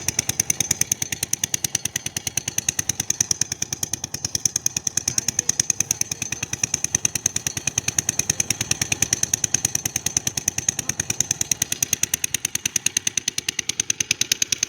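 A small engine running steadily, a fast, even knocking of about ten beats a second.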